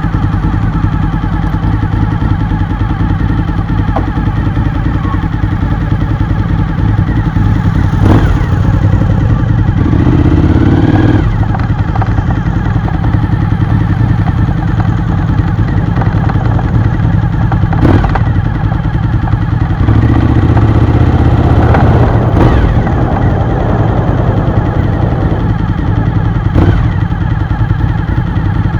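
V-twin sport motorcycle engine running at cruising speed, heard from on the bike, with the engine note swelling louder a couple of times and a few sharp knocks.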